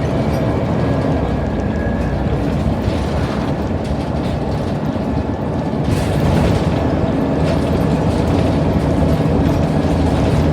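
Scania N94UD Omnidekka double-decker bus on the move: steady engine hum and road rumble with interior rattles, growing somewhat louder about six seconds in.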